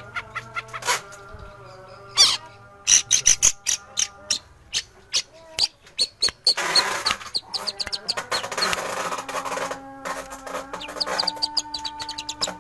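Long-tailed shrike (cendet) singing a rapid string of sharp chirps and clicks, with a raspy chattering stretch about halfway through, over steady sustained background tones.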